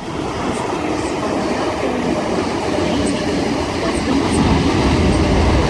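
Sydney Trains Tangara (T set) electric multiple unit passing through the station: a steady rumble of wheels on rails that grows louder toward the end, with a few light high clicks.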